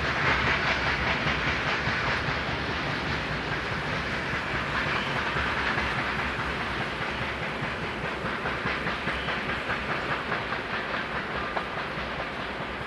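Freight train wagons rolling past, steel wheels on rail making a steady rushing noise with a regular clickety-clack over the rail joints that becomes clearer in the second half.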